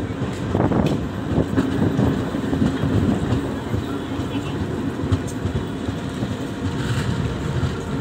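Passenger train coach running on the track, heard from on board: a steady rumble of wheels on rail with a few scattered clicks.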